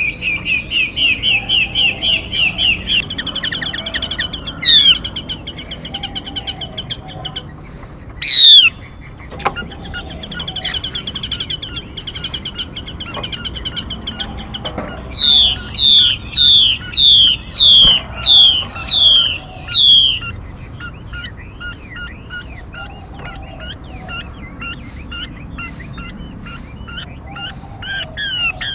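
Recorded calls of a female mi bird, played as a trapping lure: fast runs of short high chirps, sharp single down-slurred calls, and around the middle a series of loud falling whistled notes about twice a second, then softer quick chatter.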